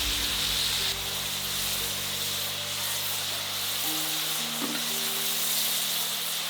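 Food sizzling as it fries in a hot pan, a steady hiss with stirring.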